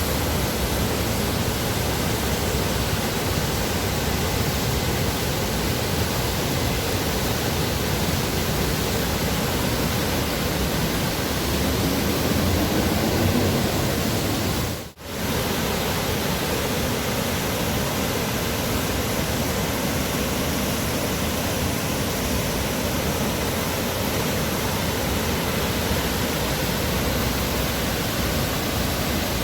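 Steady rushing of water pouring down the Dubai Water Canal waterfall. The sound dips out for a moment about halfway and comes straight back.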